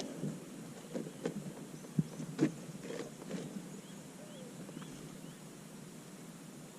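Light clicks and knocks of a casting rod and reel being handled, the sharpest about two seconds in, over a steady faint background, followed by a few faint high chirps.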